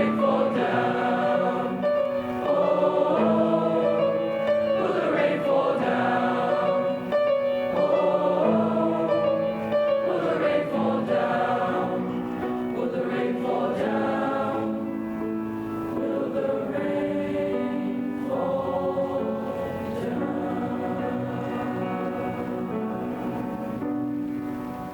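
Middle-school bass choir singing in parts, holding sustained notes. It grows quieter through the second half as the piece draws to a close.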